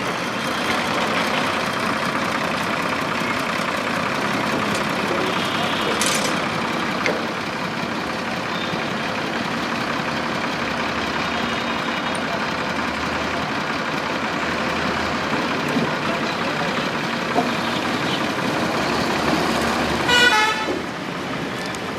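Steady motor-vehicle noise, with a sharp knock about six seconds in and a brief pitched tone near the end.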